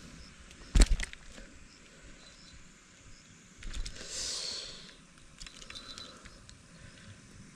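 Two sharp knocks close together about a second in, then scattered light clicks and a brief rustling hiss around the middle.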